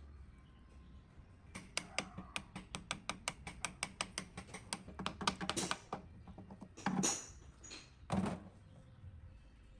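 A rapid run of sharp metallic clicks from hand tools working on the old mixer's parts, about six a second and crowding together before stopping, followed by two short, louder rasping sounds.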